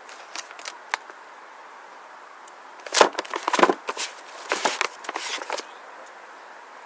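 Firework packaging being handled: two light clicks, then about two and a half seconds of rustling and knocking from about three seconds in.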